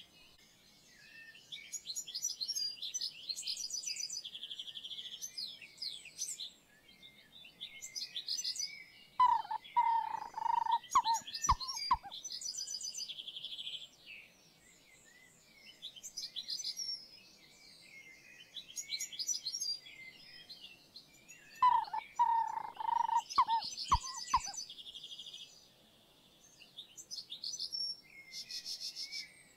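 Birds chirping and trilling in a busy chorus of short high calls. Twice, a louder, lower call breaks in, ending with a couple of sharp clicks.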